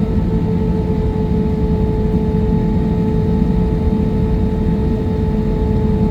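Jet airliner cabin noise in flight: a steady low engine rumble and air roar with a constant droning tone on top.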